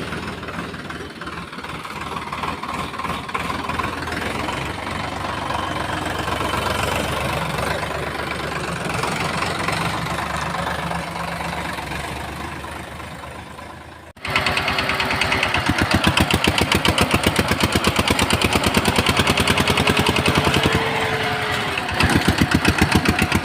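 Engine running with a steady hum. After a sudden cut about 14 seconds in, it turns to a louder, fast, even chugging with a steady whine that drops away near the end.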